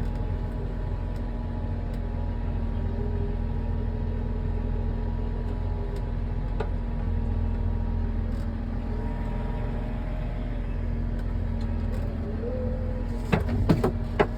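Farm tractor engine running steadily, an even low drone. Near the end, a quick cluster of sharp knocks.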